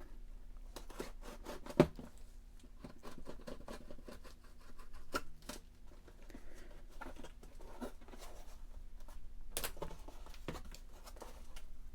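Shipping package being opened by hand: scattered small clicks, scrapes and tearing of the packaging, with one sharp click about two seconds in and a brief burst of rustling near the end.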